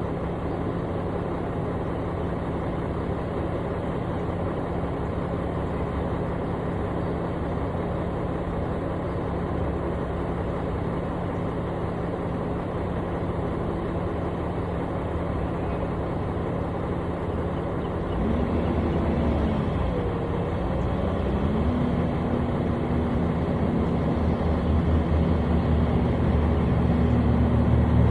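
Construction machine's engine running at a steady speed, then about two-thirds of the way in it speeds up, dips briefly and settles at a higher, louder pitch.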